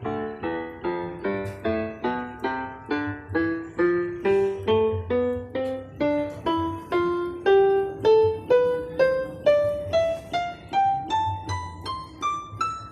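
Yamaha PSR-F52 portable keyboard played in a piano voice, one struck note after another at about two to three notes a second. The line climbs steadily higher over the second half.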